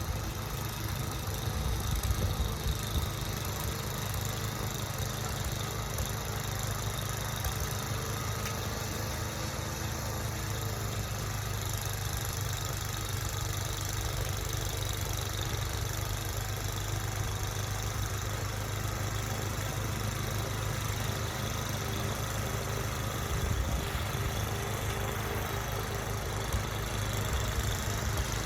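Engine running steadily at low revs, like a vehicle idling, with a few brief swells in loudness.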